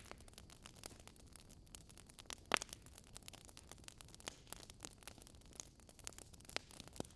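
Wood fire crackling: irregular sharp pops and crackles of varying strength over a faint steady hiss, with one louder pop about two and a half seconds in.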